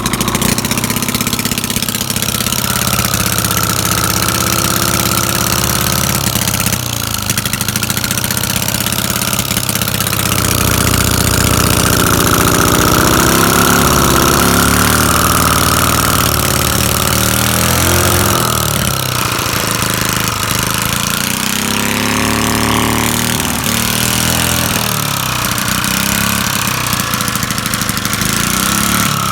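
Small gas engine of a Sears pressure washer running continuously, its speed rising and falling several times.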